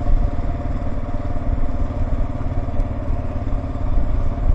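Kawasaki KLR 650's single-cylinder engine running steadily under way, with the rapid pulsing of its firing and steady road and wind noise.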